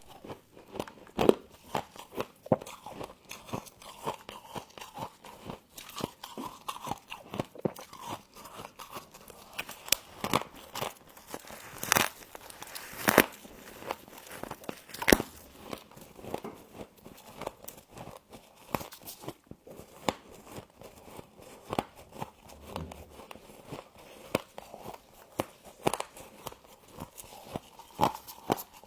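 Close-up crunching of frost being bitten and chewed: dense, irregular crisp crunches, with a few louder bites about a second in and again around 12, 13 and 15 seconds in.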